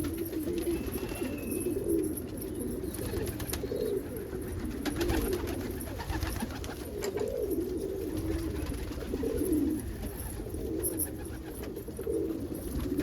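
Domestic pigeons cooing, several birds overlapping in a continuous low, warbling coo.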